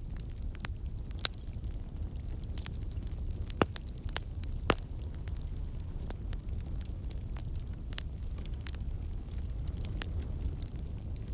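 Wood fire burning in a fireplace: a steady low rumble of the flames with scattered sharp crackles and pops, two louder pops about four and five seconds in.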